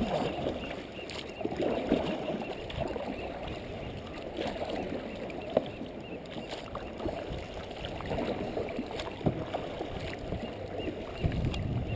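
Kayak paddles dipping and water splashing and lapping around the kayak, with a few light knocks.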